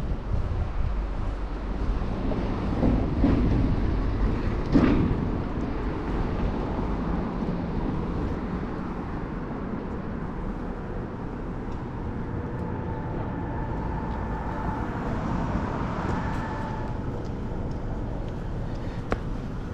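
Wind rushing over the microphone of a moving bicycle, with city traffic passing around it. A faint steady whine from a passing vehicle runs for several seconds past the middle.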